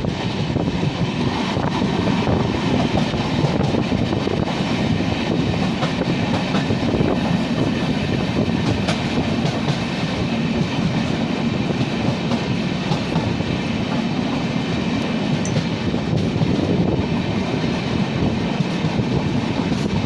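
Express passenger train running at speed: a steady, loud rumble of wheels on the rails with a faint clickety-clack.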